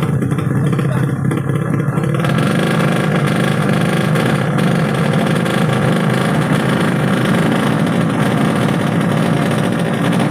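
Engine of a 200cc underbone (bebek) drag motorcycle running loudly and steadily, with no sharp revs.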